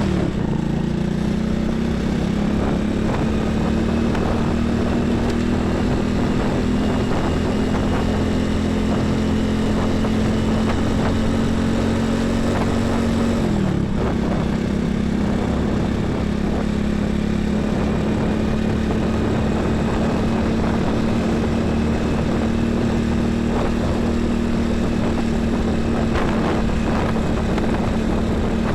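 Highway traffic of heavy trucks and buses, with a steady, loud engine drone whose pitch dips briefly about halfway through, then settles back.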